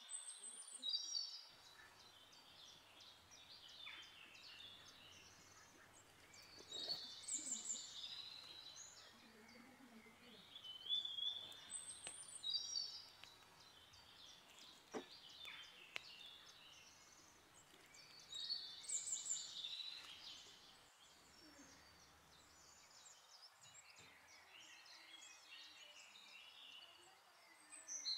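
Birds chirping and singing in short groups of high calls every few seconds, over a faint steady hiss.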